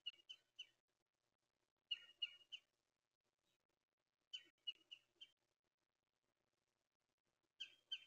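A bird calling at a feeder: short groups of three or four sharp, rapid notes, repeated every two to three seconds.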